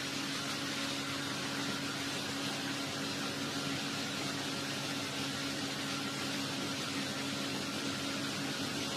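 Steady background hum and hiss with a low steady tone, unchanging throughout.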